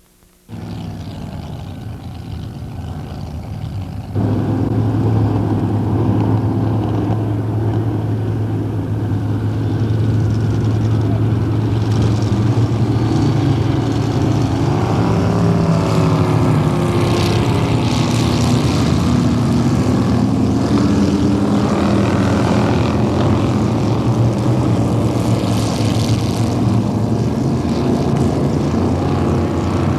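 Racing powerboat engines running steadily, jumping louder about four seconds in, with the engine pitch rising and falling near the middle.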